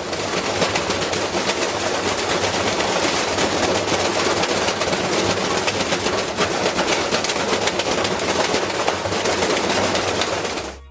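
A loud, dense crackling rattle that cuts in abruptly and stops just as suddenly about eleven seconds later.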